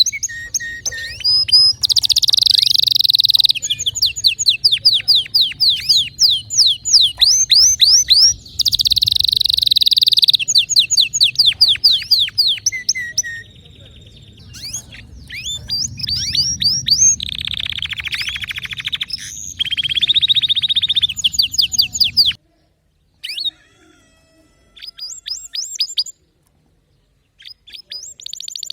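Domestic canary singing: fast repeated trills and rolls of sweeping notes, loud and high, with the phrases changing every second or two. About two-thirds of the way through, a low background hum stops and the song carries on in shorter bursts with pauses between them.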